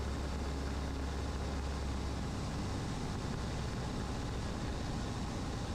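Cessna 150's four-cylinder Continental O-200 engine and propeller droning steadily in flight, heard from inside the cabin.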